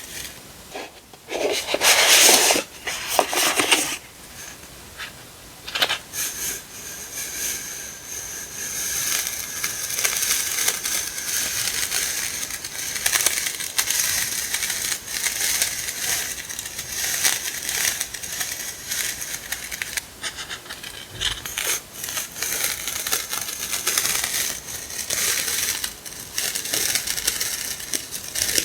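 Paper and plastic sticker packaging crinkling and rustling as it is handled: a few loud crinkles near the start, a sharp click, then steady fine rustling.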